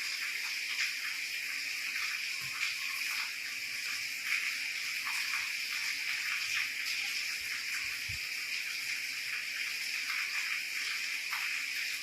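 Steady, constant rain falling, a continuous hiss with many individual drops and drips ticking through it.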